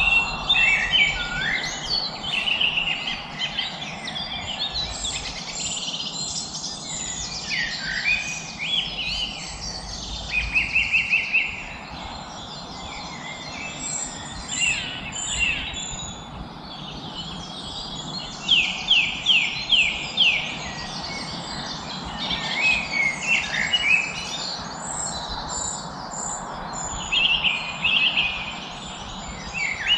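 Several songbirds singing and chirping together over a steady background hiss, with short whistled phrases and fast, repeated trills, the loudest about ten seconds in and again near twenty seconds.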